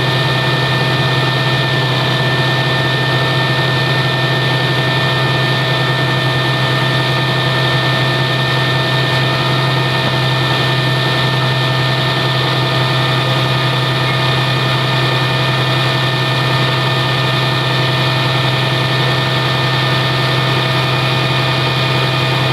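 A motor running steadily at constant speed, with a strong low hum and several steady high whining tones over a hiss.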